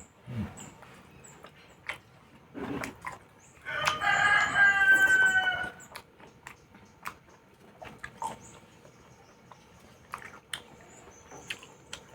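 A rooster crows once, loudly, for about two seconds starting about four seconds in. Around it are scattered small wet clicks and smacks of eating.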